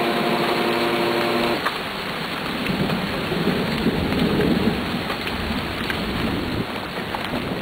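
Heavy rain pouring down, with a low rumble of thunder swelling about two and a half seconds in and fading out by about five seconds. A steady hum cuts off about one and a half seconds in.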